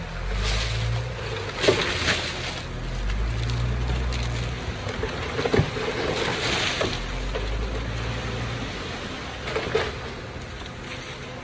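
Heavy diesel earthmoving machinery at work: a low engine drone that swells and eases under load, with sharp clanks about two seconds in, midway and near the end.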